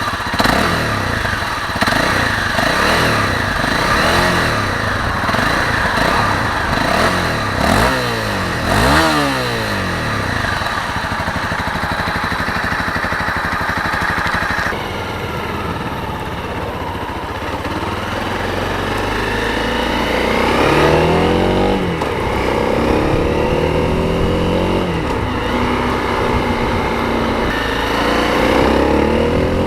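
Honda CRF250's single-cylinder four-stroke engine through its stock exhaust, revved again and again, its pitch rising and falling with each blip. The sound changes abruptly about halfway through.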